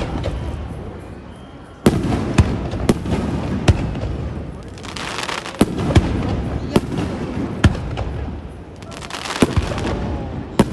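Aerial fireworks bursting: a series of sharp booms, the first big one about two seconds in and then one every second or so, with two stretches of crackling hiss from crackling stars around five and nine seconds in.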